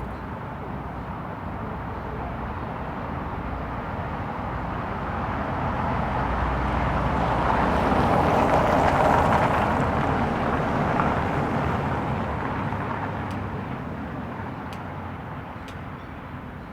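A vehicle passing by on a street, its engine and tyre noise growing steadily louder to a peak about halfway through, then slowly fading away.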